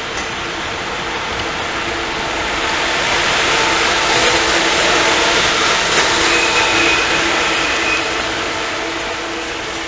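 Electric train moving slowly past in the station: a rushing, fan-like noise with steady humming and whining tones, swelling to its loudest about halfway and easing off again.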